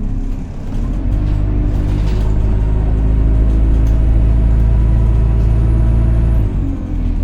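Alexander Dennis Enviro200 single-decker bus heard from on board, its engine pulling hard under acceleration, with the loud hoover-like whine it is known for. The engine note builds about a second in, holds steady with a faint high whistle over it, then drops away near the end as the load comes off.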